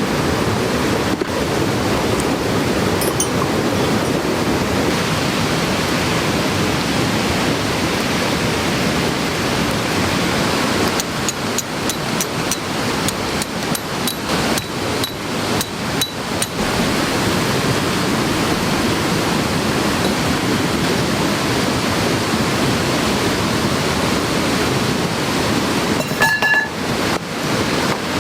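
Steady loud rush of heavy rain and a swollen stream in spate. A run of short light clicks and taps comes about halfway through, and a few more near the end.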